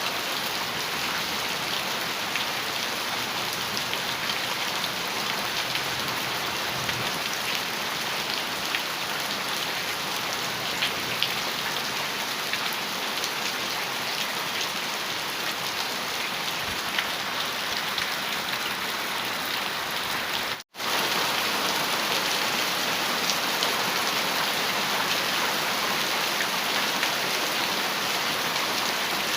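Steady heavy rain falling on a metal roof, with fine patter of individual drops. About two-thirds of the way through the sound cuts out for an instant and comes back a little louder.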